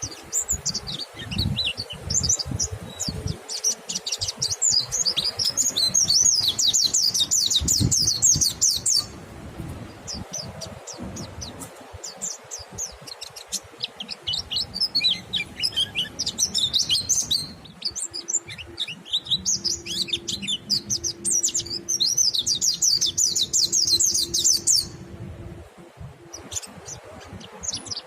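White-eye (pleci) singing its fast, high twittering song. The song comes in two long rapid runs, one starting about half a second in and one past the middle, with scattered chirps between them.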